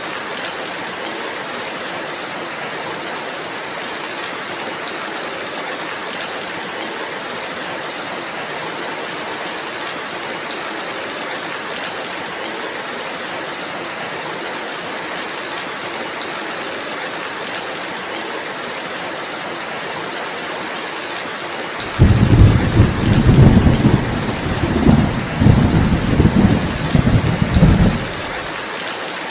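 Steady rainfall hissing throughout; about three quarters of the way through, a sudden loud low thunder rumble breaks in and rolls in several surges for about six seconds before dying away.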